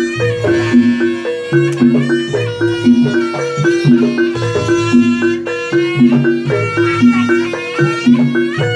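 Live Javanese jaranan music from a traditional ensemble, playing a steadily repeating pattern of held pitched notes.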